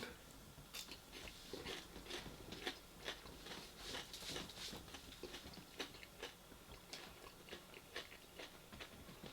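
A person chewing food with the mouth close to the microphone, faint wet crunching and smacking sounds coming every fraction of a second.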